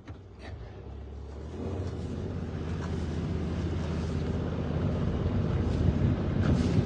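Boat engine throttling up and running steadily, growing louder as the boat gets under way.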